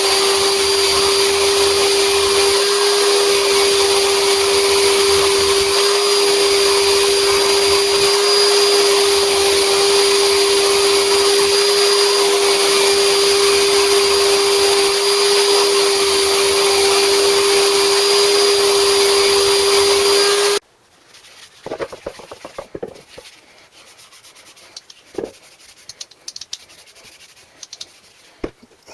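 A high-speed electric motor running steadily, with a constant whine over a hiss, cutting off suddenly about two-thirds of the way through. After it come faint scattered clicks and knocks.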